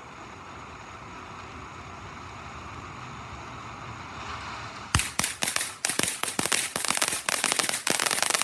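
TNT Fireworks Jam Box fountain firework spraying with a steady hiss that swells slightly. About five seconds in it switches abruptly to rapid, loud crackling pops, close together.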